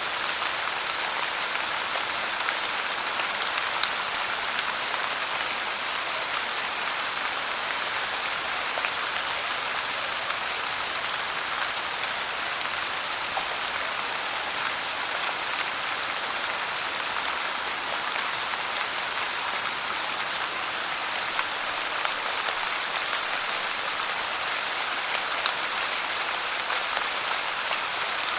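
Steady rain falling: an even hiss of pouring rain, with faint drop ticks scattered through it.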